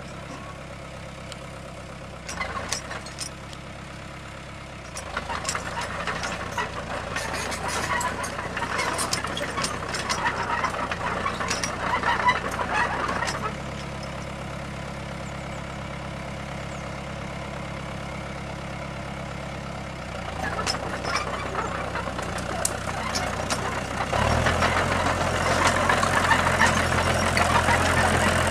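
Heavy machine's engine idling steadily, with stretches of clattering over it; about four seconds before the end the engine note steps up and runs harder.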